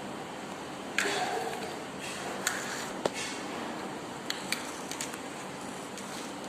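A handful of short, sharp clicks and knocks over a steady hiss, the first and loudest about a second in and followed by a brief rustle.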